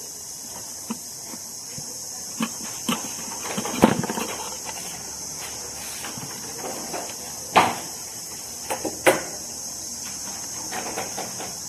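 Scattered sharp knocks and cracks as a battery is pried and broken open by hand, the loudest a little under four seconds in and two more near the end. Crickets chirr steadily throughout.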